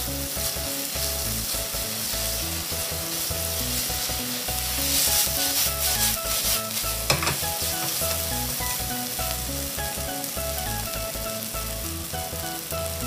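Sliced onions with ginger and garlic sizzling in oil in a stainless steel frying pan, stirred with chopsticks. The sizzle swells for a couple of seconds midway as the pan is tossed, and a single knock follows.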